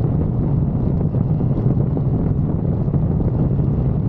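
Wind buffeting the microphone while riding, with the 1985 Suzuki GSX-R750F's oil-cooled inline-four running steadily underneath at an even cruise.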